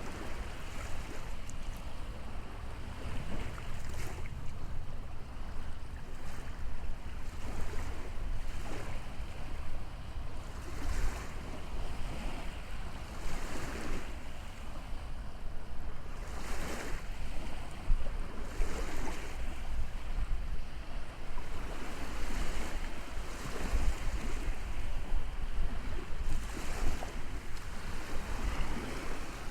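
Sea waves washing onto a shore, surging every two or three seconds, with wind rumbling on the microphone.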